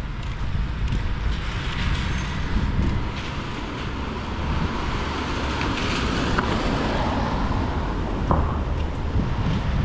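City street traffic: vehicles passing with a steady low rumble and tyre hiss, swelling twice as cars go by.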